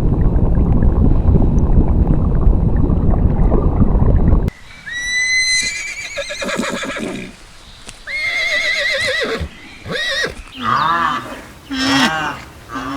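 A steady low rumbling noise for about the first four and a half seconds, which cuts off suddenly. Then a horse whinnies several times, each call high and quavering.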